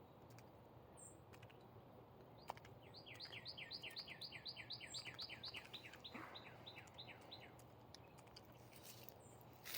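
A songbird singing one trill of about twenty quick downslurred notes, about five a second, starting about three seconds in and slowing a little before it stops; otherwise faint hiss, with a single light click just before the trill.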